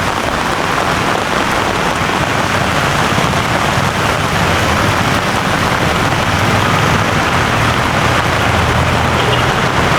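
Heavy rain pouring steadily, with a low rumble of road traffic underneath that grows louder in the second half.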